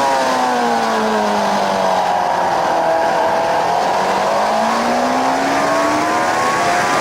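Suzuki GSX-R 750 K7's inline-four engine on track: revs fall away for the first few seconds, bottom out around the middle, then rise steadily again as the bike drives out under power.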